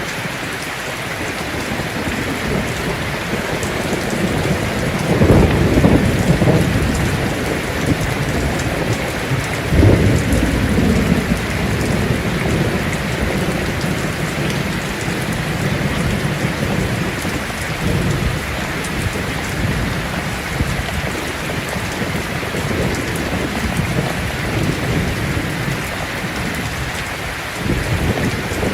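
Heavy rain falling on a tin roof as a steady hiss, with thunder rumbling in low swells about five seconds in, again about ten seconds in, and near the end.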